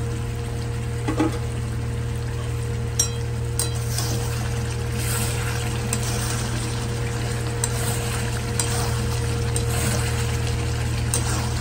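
Chicken pieces in thick curry masala sizzling in a steel kadai while being stirred with a metal spatula, with scattered sharp clicks of the spatula against the pan, over a steady low hum. It is the kosha stage, slow-frying the chicken in its spices.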